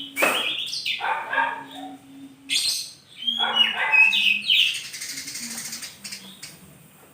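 Oriental magpie-robin (kacer) singing in bursts of rapid, varied, harsh chattering phrases, a second or so apart, fading near the end.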